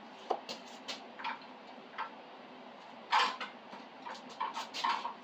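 Hand rummaging through a toolbox for a dropped small screw: scattered clicks and clatters of tools and small parts being moved, the loudest about three seconds in and a quick run of them near the end.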